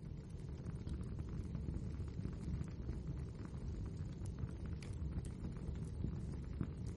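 Wood fire burning in a fireplace: a steady low rumble of flames with many small crackles and pops.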